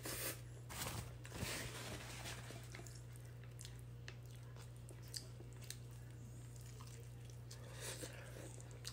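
Faint biting and chewing of a low-carb crunchwrap with a crunchy cheddar-and-chip disc inside. The crunching is mostly in the first two seconds, then come quieter chewing sounds with one sharper click about five seconds in.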